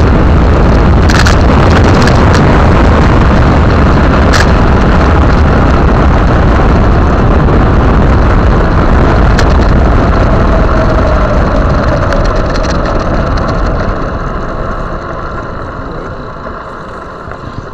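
Heavy wind buffeting on a bike-mounted action camera's microphone while cycling, a dense low rumble with a few sharp knocks early on. It eases off over the last few seconds.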